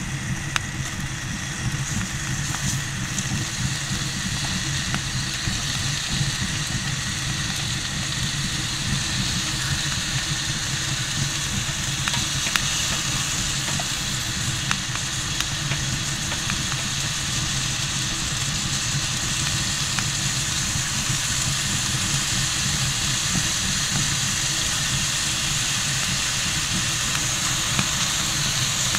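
Mushrooms sizzling in fat in a cast iron skillet on a wood stove: a steady frying hiss with small pops and crackles scattered through it, over a constant low rumble.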